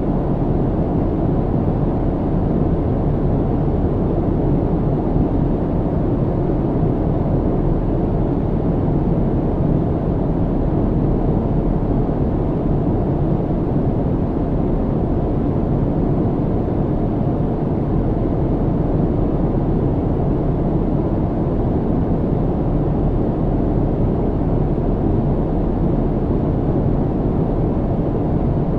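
Steady, unbroken low rumble of a jet airliner's cabin in flight, heavy in the bass with little hiss.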